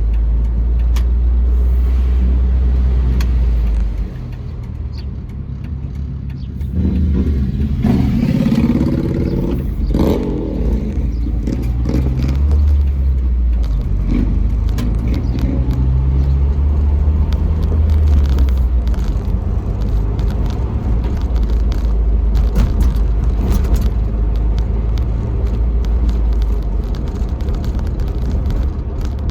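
Jeep Wrangler TJ driving: the engine's low drone eases off about four seconds in, then picks up again with its pitch rising and falling as it accelerates, while small clicks and rattles come through.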